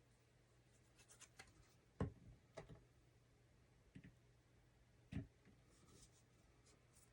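Paper card stock handled and pressed down by hand while being glued: faint rustling and four soft taps, the loudest about two seconds in.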